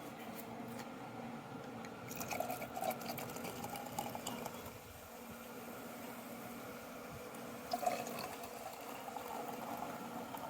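Prosecco being poured into a champagne flute, the liquid filling the glass.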